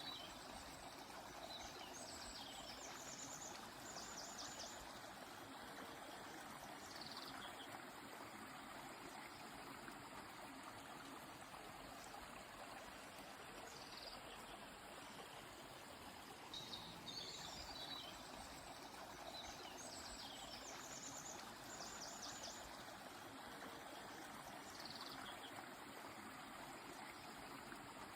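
River water flowing steadily, with birds singing now and then above it, including a short rapid trill heard twice.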